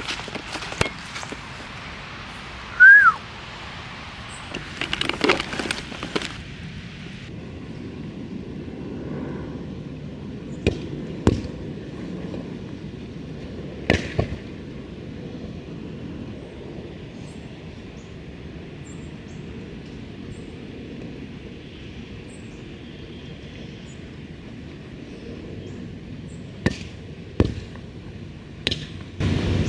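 A volleyball being hit in play: sharp slaps scattered through, some in quick pairs or clusters, over a steady outdoor background. About three seconds in there is one short, high, falling chirp.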